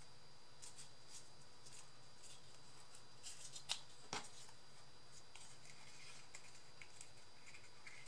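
Faint rustling and light ticking of chipboard and paper pieces being handled and pressed together, with two sharper clicks about four seconds in.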